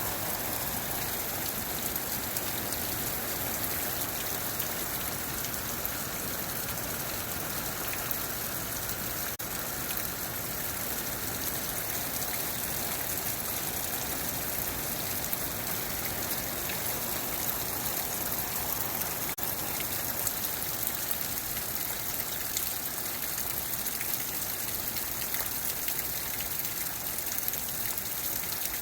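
Heavy rain falling steadily, a constant downpour with many small drop ticks and running water.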